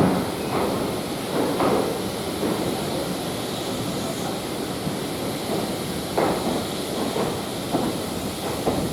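Train on a heritage railway, running with a steady rumble and hiss and irregular knocks, several of them spread across a few seconds.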